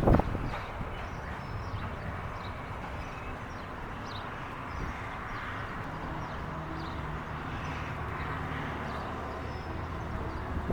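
School bus diesel engine running steadily while the bus drives, with a sharp knock right at the start.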